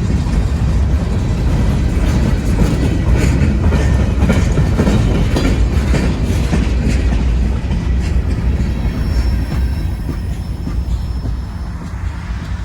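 CSX freight train cars rolling past, a heavy rumble with steel wheels clicking over the rail joints, the sound falling away over the last few seconds as the train moves off.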